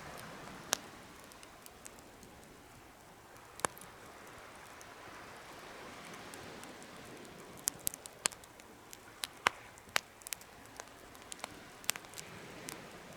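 Wood fire burning in a DIY fire stand: a steady hiss with sharp crackles and pops, two single pops in the first few seconds, then many more from about seven seconds in.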